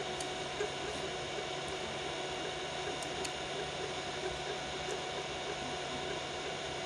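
Biqu BX 3D printer running a print at 120 mm/s: a steady whir and hum of its fans and motors, with a few faint ticks.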